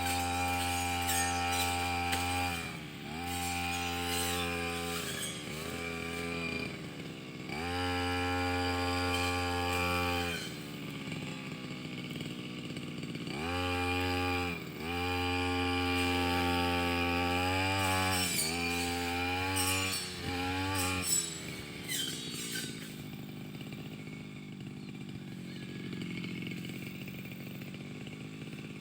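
Brush cutter engine running at high revs while cutting grass and undergrowth. The throttle eases off and opens again several times, then the engine runs at a low idle for several seconds near the end before revving up again.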